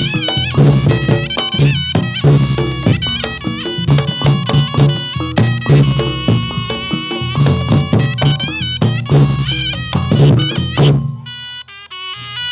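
Reog Ponorogo gamelan ensemble playing jathilan dance music: a wavering, reedy slompret (double-reed shawm) melody over a steady beat of drums and pitched gongs. About eleven seconds in, the ensemble drops out briefly, then comes back in.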